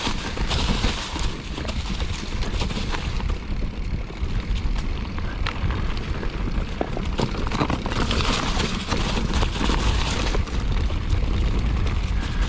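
Wind rumbling on the microphone and a mountain bike rolling fast over a rough trail, with a constant rattle of small knocks and clicks from the bike and ground.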